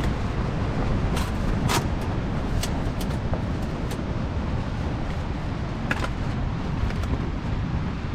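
Strong wind buffeting the microphone: a steady, loud low rumble, with a few sharp taps scattered through it.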